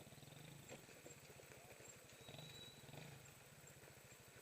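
Faint, distant dirt bike engine running with a fast low pulse, swelling and easing a little as it is revved.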